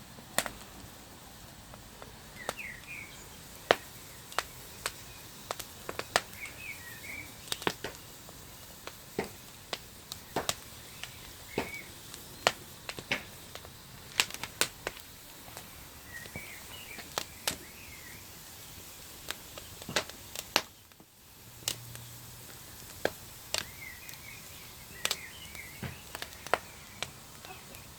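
Open wood fire of damp walnut branches crackling, with irregular sharp pops. Small birds chirp in short clusters every few seconds.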